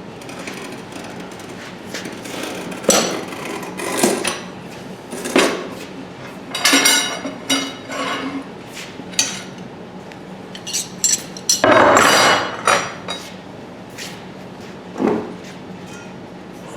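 Steel tire irons knocking, clinking and scraping against the rim of a wire wheel while a tyre is levered off. There are irregular metallic knocks, some ringing briefly, and one longer, louder scrape about two-thirds of the way in.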